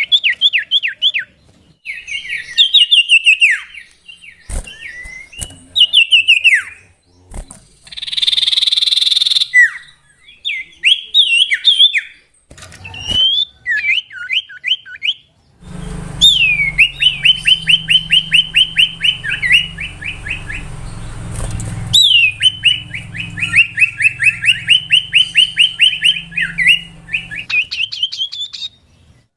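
Common iora (cipoh) singing: bursts of rapid, repeated whistled notes and fast trills with short pauses between them. A brief hiss cuts in about eight seconds in, and a low hum sits under the song for several seconds past the middle.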